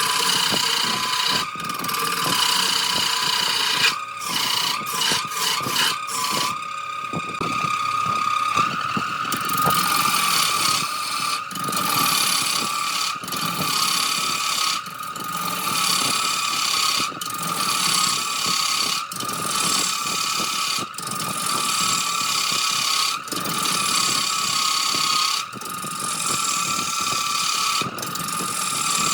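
Wood lathe running with a steady high whine while a turning tool cuts the spinning jackfruit wood, a rough scraping under the whine. The sound breaks off briefly every couple of seconds.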